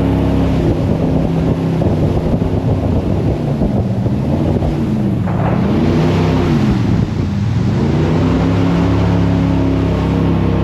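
Jet boat engine running hard, with wind and water rushing past. About halfway through, the engine note falls and rises a couple of times before settling back to a steady pitch.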